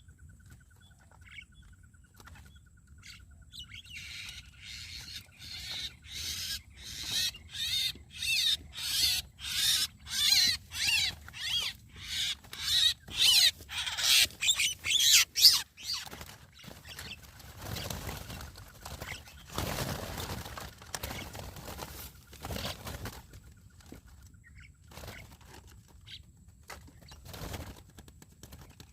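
Javan myna (jalak kebo) giving a rapid series of harsh calls, about two a second, growing louder before they stop about halfway through. Several seconds of scuffling noise follow.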